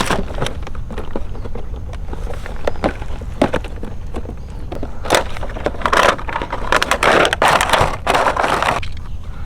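Irregular crunching and crackling with many sharp clicks, growing into longer, louder crunching stretches from about five to nine seconds in.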